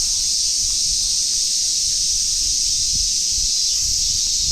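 Summer cicada chorus, a steady high sizzling hiss, with irregular low thumps of footsteps underneath.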